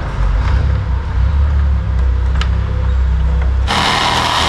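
A steady low engine-like rumble. About three and a half seconds in it gives way to a sudden loud hiss that lasts about a second.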